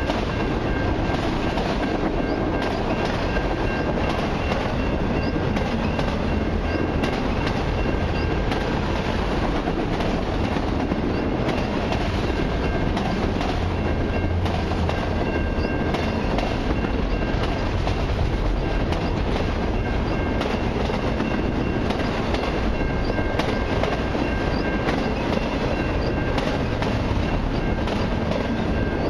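Long freight train of mixed cars and autoracks rolling past: a steady rumble of steel wheels on rail, with frequent clicks as the wheels cross rail joints and a faint high ringing tone that comes and goes.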